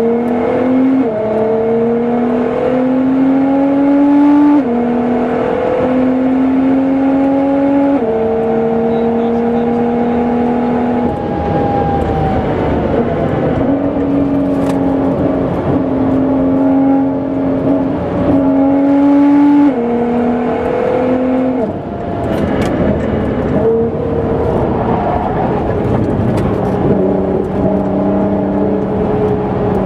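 Nissan GT-R R35's tuned twin-turbo V6 at full throttle on a race circuit, its pitch climbing through the gears and dropping sharply at each upshift. About a third of the way in the engine note falls away as it lifts off, then it pulls through the gears again.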